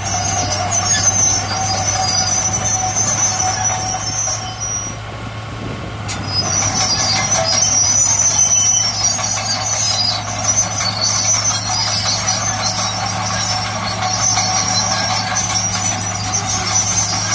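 Heavy diesel earthmoving machine working: a steady low engine drone with a high-pitched squeal over it, which dips briefly about five seconds in and then comes back.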